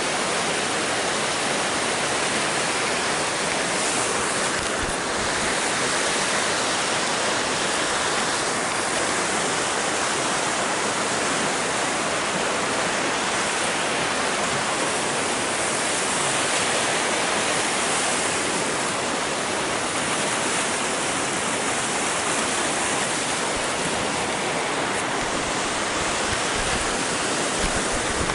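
Waterfall: a steady, unbroken roar of falling water.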